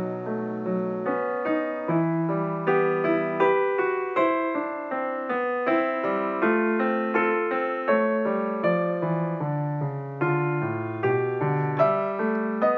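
Background piano music: a steady run of struck notes in a gentle melody.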